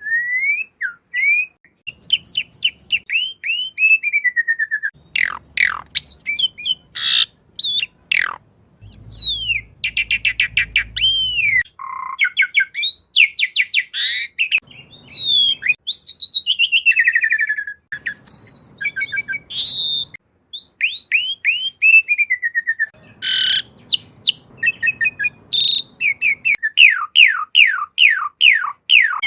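Asian pied starling singing a long, varied song: quick runs of falling whistled notes mixed with chirps and short harsh, buzzy calls, broken by brief pauses.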